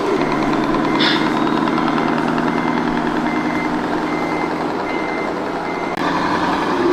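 RC model truck's sound module running a truck engine sound, with a reversing beeper giving short high beeps about once a second from about two seconds in. There is a brief sharp hiss about a second in.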